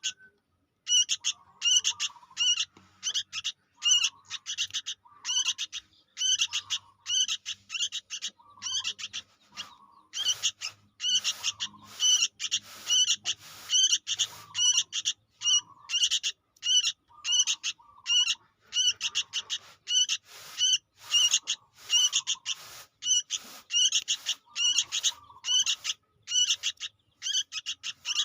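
Young sooty-headed bulbul (kutilang) calling without pause: short, high chirps repeated about twice a second.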